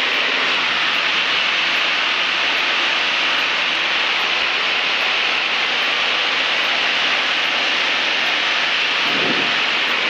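Steady in-flight cabin noise of a Cessna 152, its Lycoming four-cylinder engine and propeller heard as an even, unchanging hiss-like drone.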